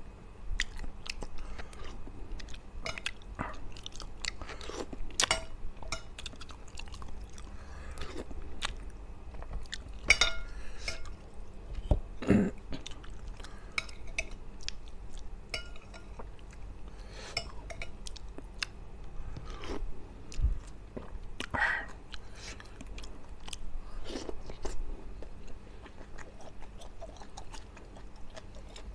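A man chewing mouthfuls of rice and fried fish with chilli sambal, eaten by hand, close to the microphone. Irregular wet mouth clicks run through the chewing.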